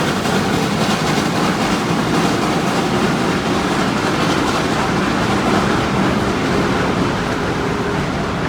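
A train running on the rails: a steady, loud rumble and rattle of wheels and cars that eases a little near the end.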